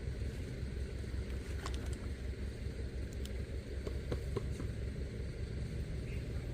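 A steady low engine rumble, with a few faint clicks.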